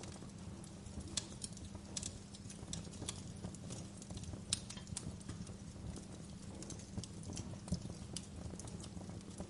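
Wood fire crackling in a fireplace: irregular snaps and pops over a steady low rumble, with a few louder pops scattered through.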